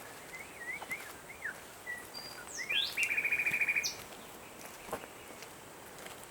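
A songbird singing: a few short whistled, slurred notes, then a fast, even trill about three seconds in, over a faint steady hiss.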